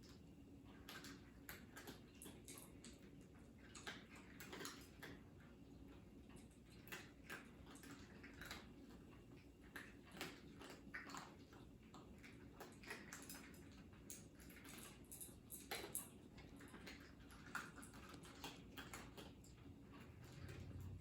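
Cats eating, with faint, irregular clicks and ticks of chewing over a low room hum.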